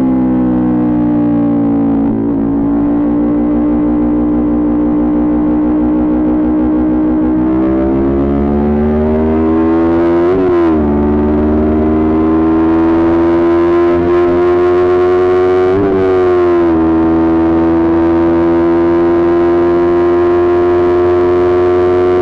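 Kawasaki Ninja 400 parallel-twin engine with aftermarket Coffman exhaust under way. It holds a steady note, then pulls with the pitch climbing, and two quick upshifts about ten and sixteen seconds in each drop the revs.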